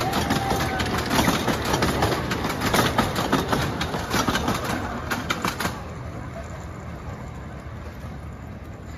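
Steel wheels of a miniature park train's open passenger cars clicking rapidly over the rail joints as the cars roll close past, over a steady rumble. About six seconds in the clicking stops abruptly and only a fainter, fading rumble of the departing train remains.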